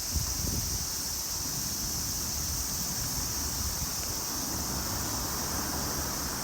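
Steady storm wind with a low rumble and a constant hiss.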